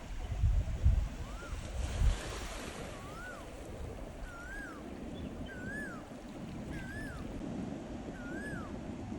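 An animal calling over and over, a short whistled call that rises and falls, about once a second. Wind buffets the microphone in the first two seconds.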